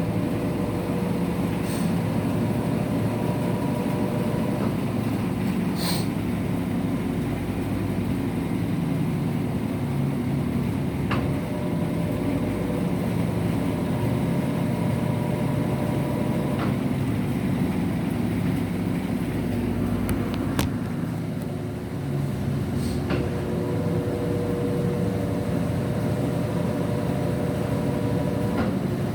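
Electrolux LF75 washing machine running through its wash cycle: a steady low hum, with a motor whine that comes on three times for several seconds each, a faint click where it starts and stops.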